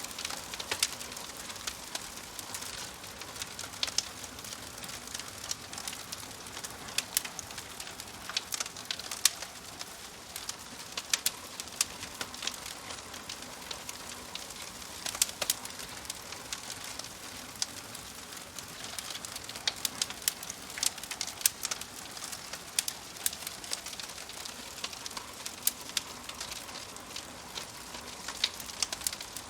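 Wood fire crackling, with sharp irregular pops and snaps over a steady soft hiss.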